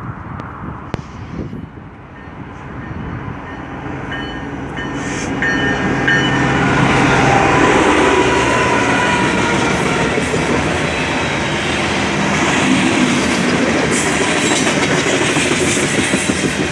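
Freight train diesel locomotives, including a GE ES44AC, approach and pass close by, the engines running and growing louder over the first several seconds. Then the steady rumble and clatter of coal hopper cars rolling past on the rails.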